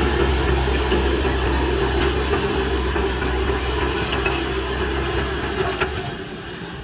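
JCB backhoe loader's diesel engine running steadily, with a couple of faint clanks. The sound drops away near the end.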